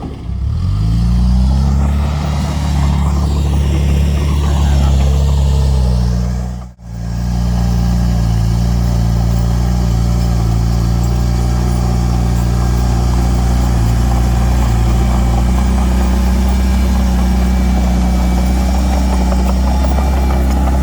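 Heavy earthmoving machine's diesel engine running hard, climbing in pitch over the first couple of seconds and then holding steady. The sound drops out sharply for a moment about a third of the way in before the engine carries on.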